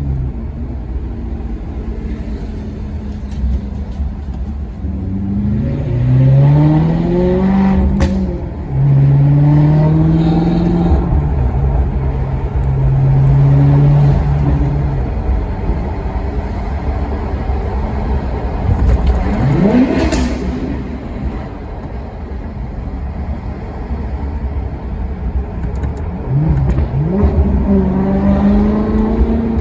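Maserati Quattroporte's V8 engine accelerating, its revs rising, then holding steady revs for several seconds. About two-thirds of the way through comes a quick sharp throttle blip, as on a downshift, and near the end the revs climb again.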